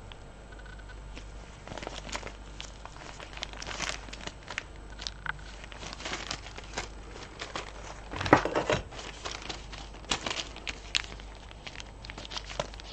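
Beads and their packaging being handled while sorting: scattered small clicks and rustling, with a louder cluster of clicks and rattling a little over eight seconds in.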